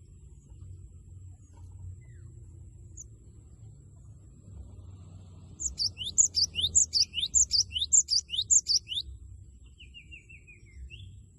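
Cinereous tit (gelatik batu) singing a loud, rapid string of repeated high two-note 'wucit' phrases for about three seconds, starting about halfway in, followed by a short, softer run of falling notes.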